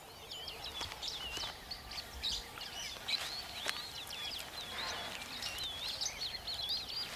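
Birds calling: a steady stream of short, wavering whistled chirps, repeated many times over a faint background of bush ambience.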